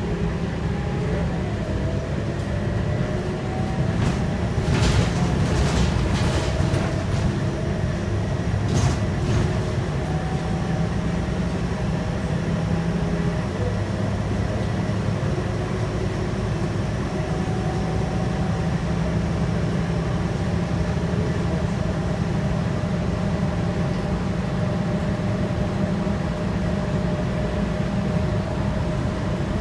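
Scania K230UB bus under way, heard from inside: its 8.9-litre five-cylinder Scania DC9 diesel and ZF six-speed automatic running with a steady low rumble and road noise. A faint whine rises over the first few seconds, and a few short knocks or rattles come about five and nine seconds in.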